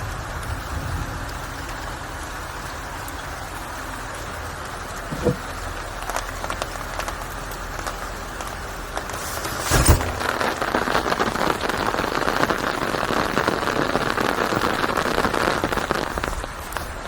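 Steady rainfall with one sharp knock just before ten seconds in. The rain then grows heavier for several seconds and eases off near the end.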